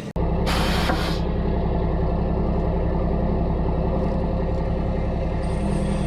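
Mack truck's diesel engine running steadily, with a short burst of air hiss from the air brakes about half a second in.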